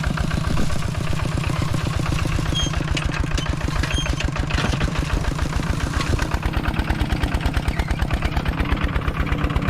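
A vehicle engine running at idle with an even, rapid chugging, its beat growing more pronounced in the second half.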